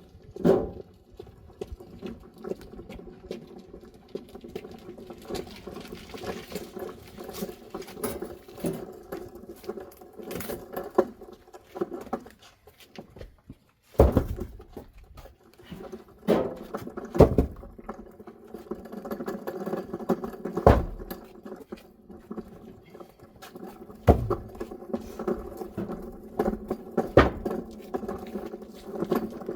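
Firewood logs knocking against each other as they are handled and stacked, with scattered thuds of wood on wood, the loudest about fourteen seconds in, over a steady machine hum.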